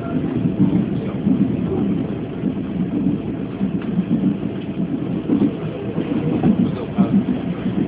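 Chu-Kuang Express passenger coach heard from inside while running: a steady low rumble of wheels on rails and the car body, rising and falling unevenly.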